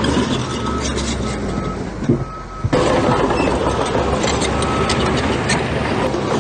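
Heavy diesel earthmoving machinery running under load, with a reversing alarm beeping in a repeated on-off pattern. The engine noise dips sharply for a moment a little over two seconds in, then comes back.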